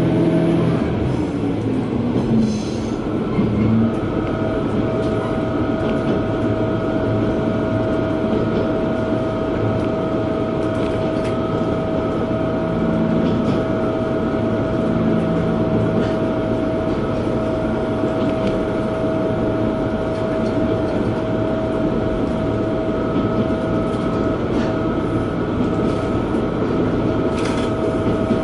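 Diesel railcar under way, heard from inside the car: a steady rumble of engine and wheels on rail, with a steady whine running through it. The low engine note rises briefly about two to four seconds in.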